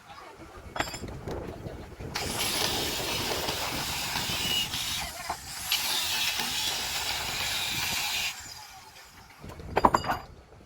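A loud, steady hiss that starts abruptly about two seconds in and stops abruptly about six seconds later, with a few sharp knocks near the end.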